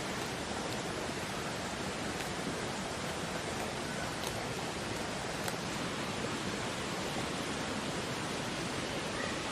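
Steady rushing noise like flowing water, even throughout, with a couple of faint ticks about midway.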